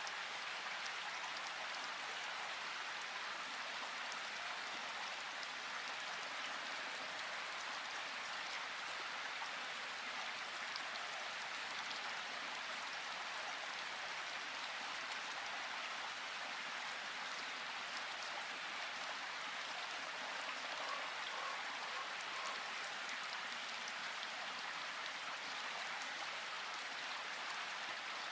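Rushing water, a steady, even hiss with no change in level.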